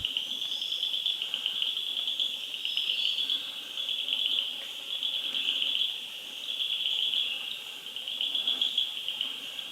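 A forest insect chorus: a steady, high-pitched, rapidly pulsing buzz that swells and fades in loudness every second or two.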